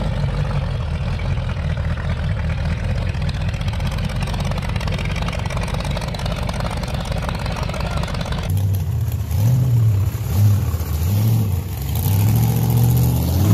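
A rat rod's engine running steadily at low revs. About two-thirds of the way in it cuts to another rat rod's engine, which is revved up and down several times as the car rolls by.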